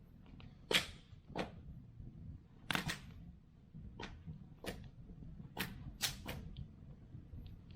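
Wood fire crackling: about a dozen sharp pops and snaps at irregular intervals, the loudest a second in and around three seconds in, over a low steady rumble of the burning fire.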